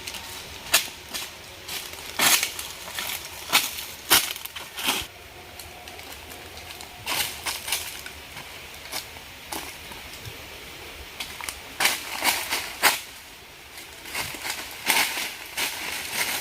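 Irregular crunching and crackling, made up of sharp cracks at uneven intervals that come in busy spells with quieter gaps between.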